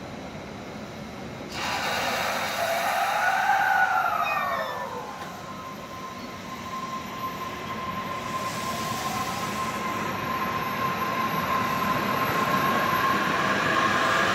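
JR East E233-series electric commuter train running on its electric motors. About a second and a half in the noise jumps up, with a whine that swoops up and then falls away. A steady whine then grows louder and starts to climb in pitch near the end as the train picks up speed.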